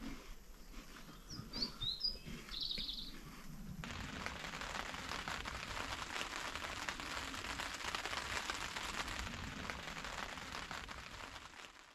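A few short bird chirps, then from about four seconds in a steady patter of rain that fades out at the end.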